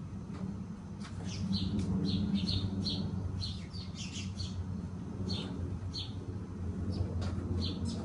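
Small birds chirping, many short separate notes in quick scattered runs, over a steady low hum.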